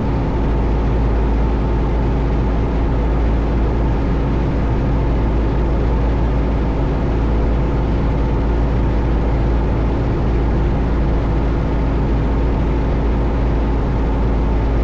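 A 1972 Cessna Skyhawk's four-cylinder Lycoming engine and propeller droning steadily inside the cabin in flight, holding even power with a constant hum of steady tones over a deep rumble.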